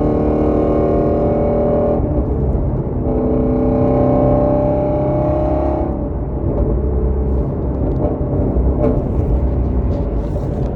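2017 Ford Shelby GT350's 5.2-litre flat-plane-crank V8, through an exhaust with the resonators deleted, off-road mid pipes and the exhaust valves open, pulling under acceleration with rising pitch. There is a shift about two seconds in. About six seconds in it lifts off to a rough rumble, and the exhaust crackles and pops on the overrun near the end.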